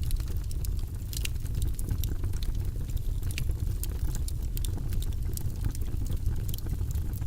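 Wood logs burning in a fireplace: a steady low rumble of the flames with many sharp, irregular crackles and pops.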